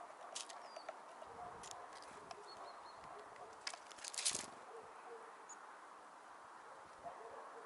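Small birds at a winter feeder: a few sharp taps and clatters, loudest in a quick cluster about four seconds in, with a few faint, short high call notes, over a low background hum.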